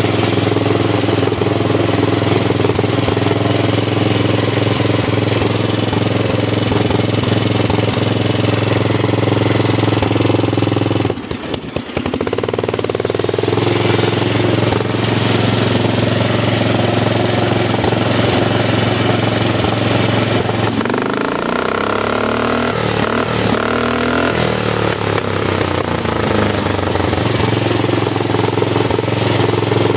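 Small engine of a customized Dynamark lawn tractor running steadily through its aftermarket exhaust. It drops out briefly about eleven seconds in, and a little past twenty seconds its pitch swings up and down as it is revved, before it settles back to a steady run.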